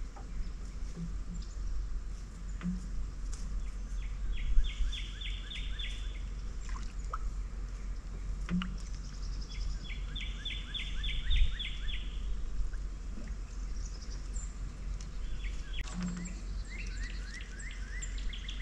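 A songbird singing the same quick run of bright repeated notes three times, over a steady low outdoor rumble. Two soft knocks stand out, a little after the first song and during the second.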